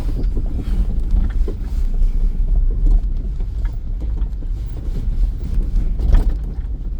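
Moving taxi heard from inside: steady low engine and road rumble with wind buffeting the microphone, and a brief louder jolt about six seconds in.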